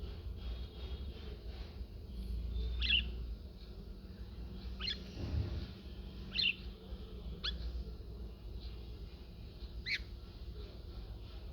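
Pet budgerigar giving short, sharp chirps, about five spread over several seconds, over a low steady background rumble.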